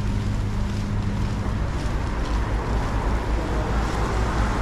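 Steady low rumble and rushing of wind buffeting the microphone.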